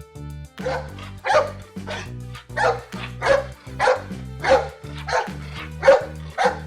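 A dog barking over and over in a steady rhythm, about three barks every two seconds, over background music with sustained low notes.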